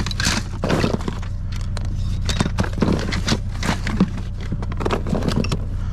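Rummaging through a box of small toys and scrap, with irregular clicks, clatters and rustling scrapes of plastic and metal pieces being moved, over a steady low hum.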